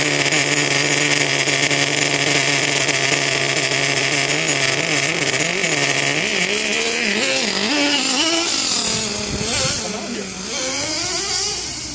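Nitro glow engine (Vertex Racing .25) of a Redcat Earthquake 3.5 RC truck running at a steady high-pitched buzz; about halfway through its pitch drops and then rises and falls unevenly as the throttle is varied.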